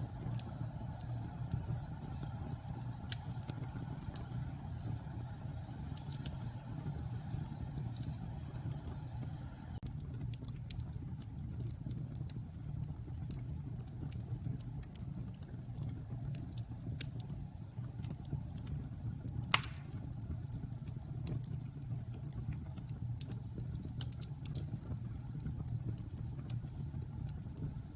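Wood bonfire burning: a steady low rumble of flames with scattered crackles throughout and one sharp, louder pop about two-thirds of the way through.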